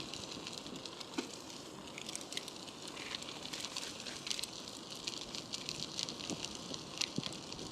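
Bicycle in motion: steady tyre-on-road noise with many small irregular ticks and crackles, and some wind rumble on the microphone.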